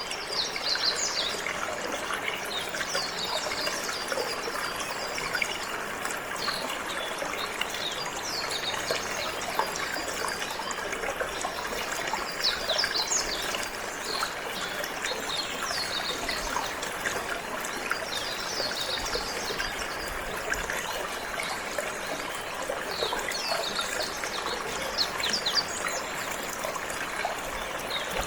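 Running water trickling and flowing steadily, with a canary chirping and twittering in short high bursts every few seconds.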